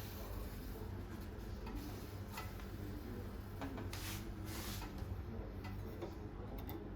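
A few faint clicks and short rustles over a low, steady hum.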